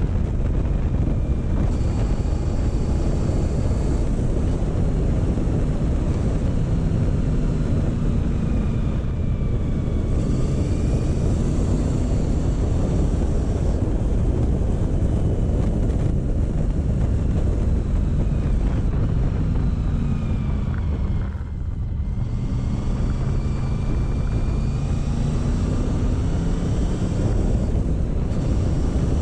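Motorcycle engine running on the road, with wind rushing over the microphone. The engine's pitch rises and falls with the throttle and drops away briefly about two-thirds of the way through before picking up again.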